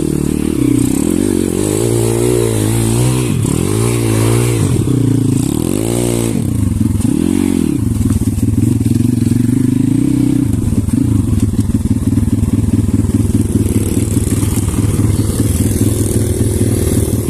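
Pit bike's single-cylinder engine revving up and down several times in quick swells, then running at a steadier, lower speed for the second half.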